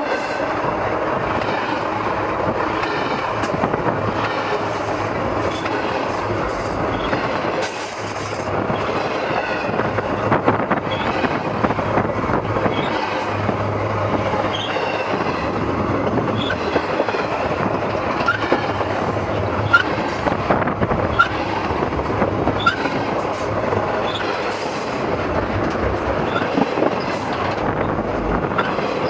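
Railcars rolling directly over the track, heard from between the rails: a steady, close rumble and clatter of steel wheels on the rails. Brief high wheel squeaks come now and then, and there are a few sharper clanks.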